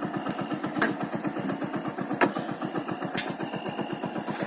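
Motorcycle engine idling with an even, rapid beat and no piston knock, its cylinder block and piston freshly replaced. A few sharp clicks and a faint high chirp repeating in short pulses sound over it.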